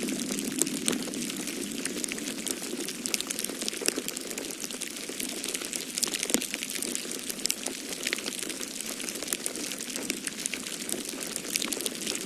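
Wood fire crackling in a fireplace, with frequent small sharp pops over a steady low rush of snowstorm wind.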